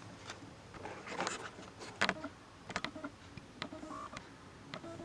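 Scattered light clicks and taps of small tools and laptop parts being handled on a work surface, with a sharper click about two seconds in and a quick run of clicks shortly after.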